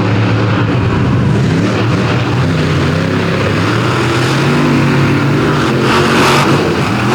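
Two monster truck engines running loud under hard throttle in a drag race, their pitch climbing and shifting as the trucks accelerate.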